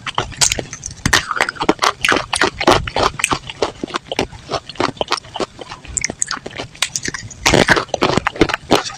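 Close-miked crunching as a person bites and chews dry, brittle mineral lumps of edible chalk-type clay, with rapid sharp cracks throughout and a louder cluster of crunches near the end.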